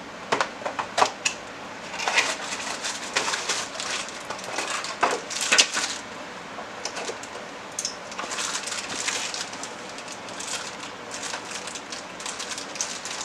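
Handling noises: irregular clicks, knocks and rustling of objects being moved, busiest from about two to six seconds in.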